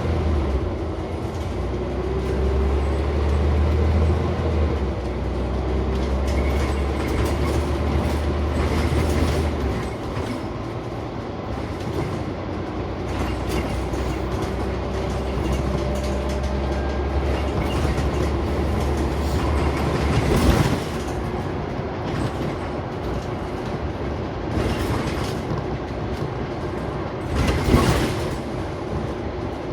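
Inside a Scania Omnicity single-deck bus on the move: engine running and road noise, with rattling. A low engine drone drops away about ten seconds in, and two sharp knocks come near the middle and near the end, as over bumps.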